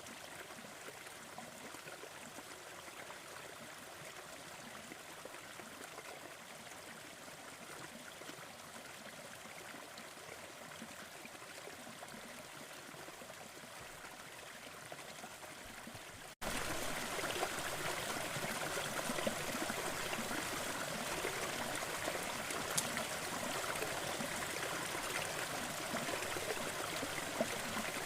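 A steady, even rushing noise with a few faint pops in it. It jumps suddenly louder a little over halfway through.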